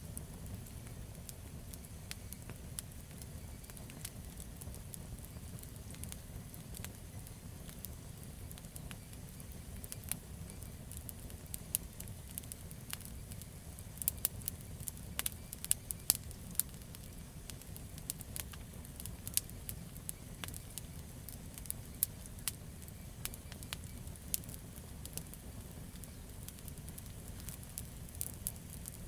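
Campfire of burning wood crackling: a steady low rumble of flame under a stream of sharp pops and snaps, busiest about halfway through.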